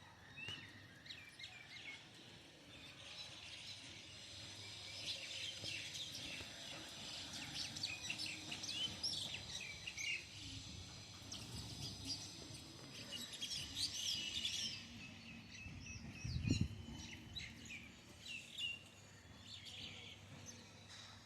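Many garden birds chirping and twittering together in a continuous busy chorus of short, high calls. About sixteen seconds in there is a single brief low thump.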